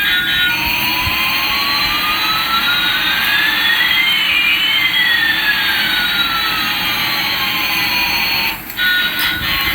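Electronic jet-engine sound effect of a toy airliner: a steady rushing hiss with one whistle rising in pitch while another falls, the two crossing about halfway through. It cuts off suddenly near the end.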